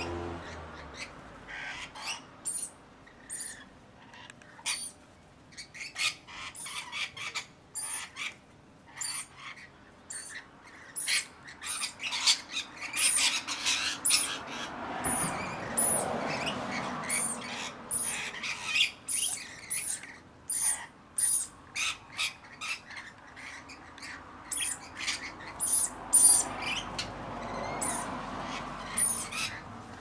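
Birds calling: a continuous run of short, high squawks and chirps, several a second, busiest in the middle.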